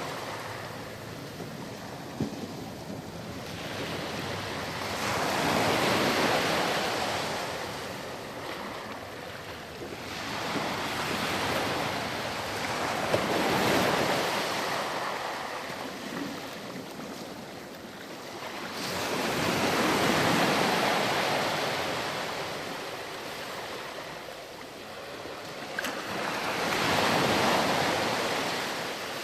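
Ocean waves breaking on a sandy shore and washing back, the surf swelling and fading about every seven seconds, four times.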